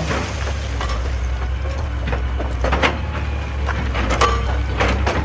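Excavator engine running with a steady low rumble, with rock knocking and clattering in a series of sharp hits, the loudest a little under three seconds in and again about four seconds in.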